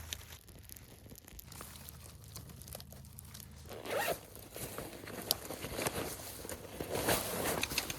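A zipper pulled open and shut a few times along with rustling of fabric, starting about halfway in; the raspy pulls are loudest around the middle and again near the end.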